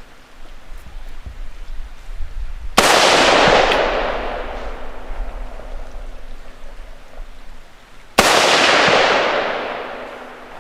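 Two rifle shots about five seconds apart, each a sharp crack followed by a long rolling echo that dies away over a couple of seconds. Both shots miss the tannerite target, so no explosion follows.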